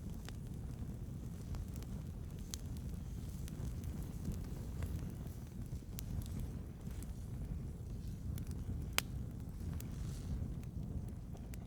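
Wood fire burning with a steady low rumble and scattered sharp pops and crackles a few seconds apart.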